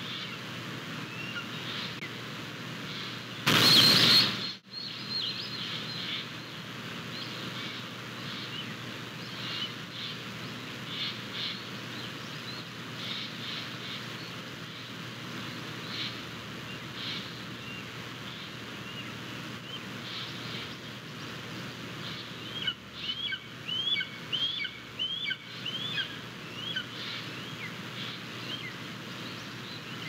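Birds chirping and calling in the background, with a quick run of about six short rising chirps a little over twenty seconds in. A brief loud rush of noise about three and a half seconds in is the loudest sound.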